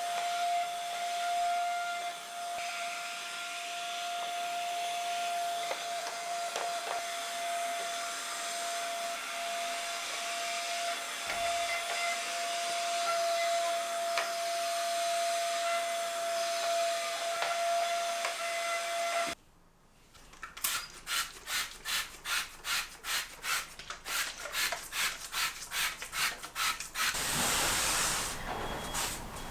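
A handheld cordless mini vacuum runs with a steady high whine over airflow hiss, sucking dust from a window sill. It cuts off suddenly and is followed by quick, regular rubbing strokes, about three a second, then a steady hiss near the end.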